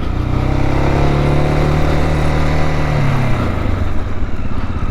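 Dual-sport motorcycle engine accelerating hard. Its pitch rises through the first second or so, holds, then falls away about three and a half seconds in.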